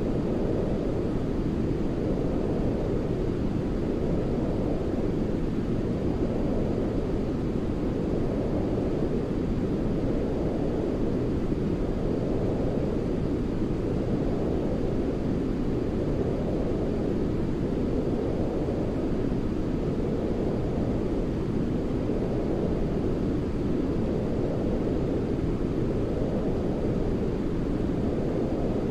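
Steady baby-sleep noise, deep and weighted to the low end like brown noise rather than hissy white noise, with a gentle swell and ebb in its upper part every few seconds.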